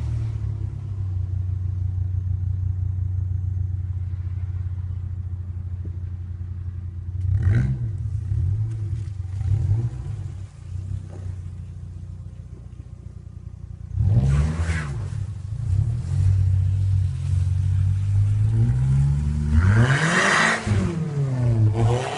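VW Polo GTI 6N2's 1.6-litre four-cylinder engine running through an Inoxcar aftermarket exhaust, idling just after a cold start. It is blipped briefly twice around 7 and 9 seconds in, then revved harder twice, around 14 seconds and again around 19 to 21 seconds, the pitch rising and falling each time.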